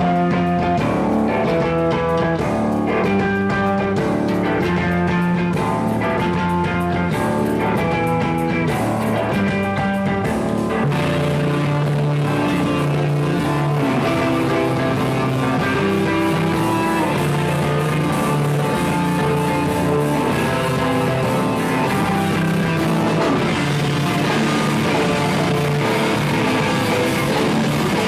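Live rock band playing an instrumental stretch with guitar and drums. The sound grows fuller about eleven seconds in.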